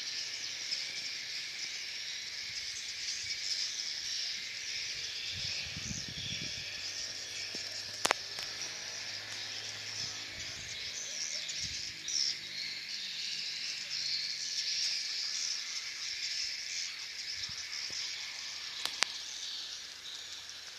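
Dense, continuous twittering of many swiftlets, the chorus heard in and around a swiftlet house. Two sharp clicks cut through it, one about 8 seconds in and one near the end.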